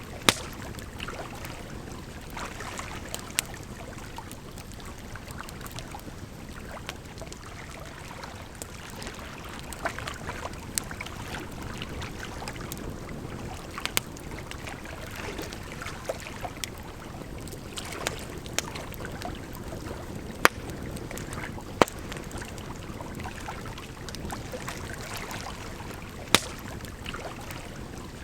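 Campfire crackling, with sharp pops every few seconds, over a steady rush of running water.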